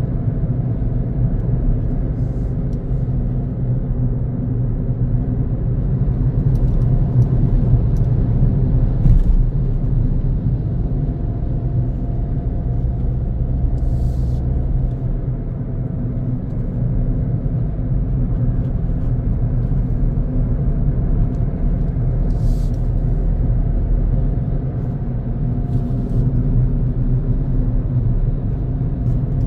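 Car driving on a road: steady low engine and tyre rumble.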